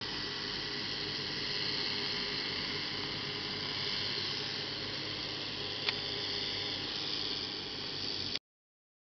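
Massey Ferguson 6480 tractor running with a Spearhead topper: a steady engine drone under a loud hissing rush. A short click about six seconds in, and the sound cuts off suddenly near the end.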